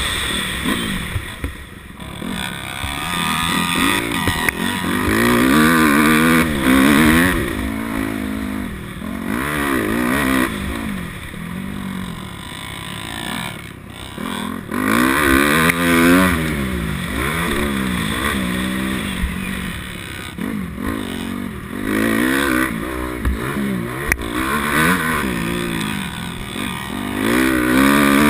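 250 dirt bike engine ridden hard on a motocross track, revving up and dropping off again and again as the rider works the throttle and gears.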